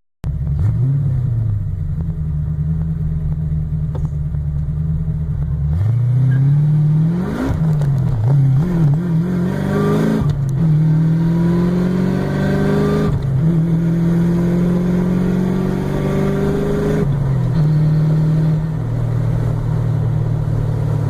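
1987 Ford Mustang GT's 5.0 L V8 running. About six seconds in it picks up, then accelerates through the gears: the pitch climbs and drops back three times before it settles to a steady cruise.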